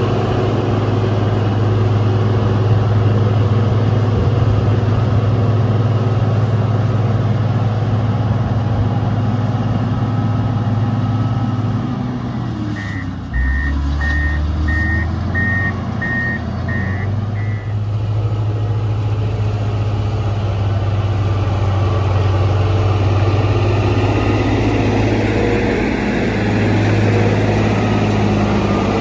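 Motor grader's diesel engine running steadily. About halfway through the engine note drops, and a reversing alarm beeps about seven times over some five seconds as the grader backs up, then the engine picks up again.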